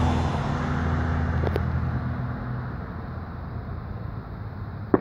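Distant fireworks: a fading rumble with a faint pop about a second and a half in, then sharp bangs right at the end. A low steady hum under it fades out in the first two or three seconds.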